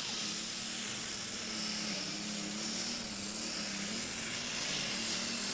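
Pulling vehicle's engine running hard under load, a loud steady rush of noise with a thin high whine held over it and a low tone that wavers slightly.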